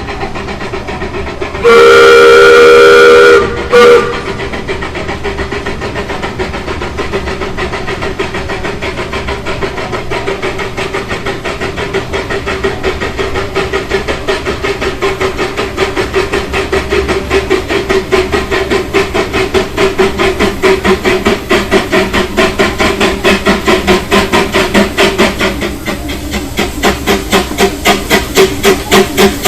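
Steam locomotive of an amusement-park railroad blows a long whistle, then a short toot, then works away with regular exhaust chuffs that grow louder and more pronounced.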